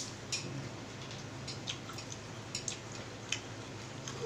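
Faint mouth sounds of someone chewing food, with small scattered clicks and smacks, over a low steady hum.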